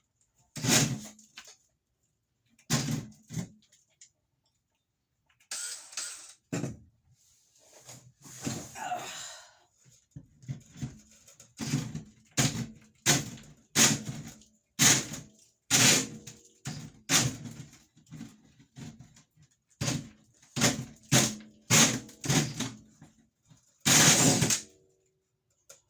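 A series of sharp knocks and thumps on the bus's fittings while a hole is made for the sink drain. They are sparse at first, then come about once a second in the second half, with a heavier thump near the end.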